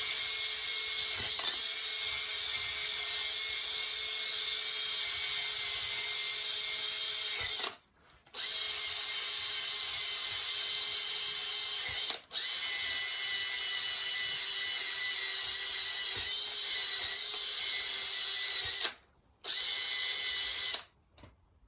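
Power drill spinning a wire brush, scrubbing a clutch part clean. It runs at a steady high pitch in four stretches, with short stops about 8 and 19 seconds in and a split-second dip about 12 seconds in, then cuts off just before the end.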